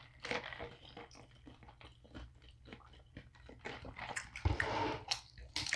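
Close-miked chewing and biting of crunchy food: a run of short, crisp crunching clicks, a little louder from about four seconds in.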